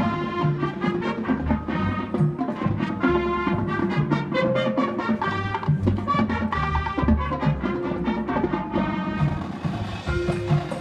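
A high school marching band playing, brass and drumline together, with rhythmic percussion under the brass.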